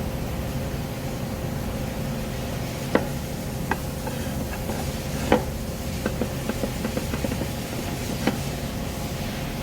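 Wooden knocks over a steady low rumble: a sharp strike about three seconds in and another about five seconds in, then a quick run of lighter clacks and one more knock near the end.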